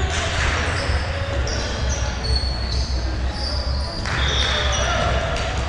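Indoor volleyball play in a gym: repeated short high squeaks of shoes on the court and ball hits, over a steady low hum and faint voices.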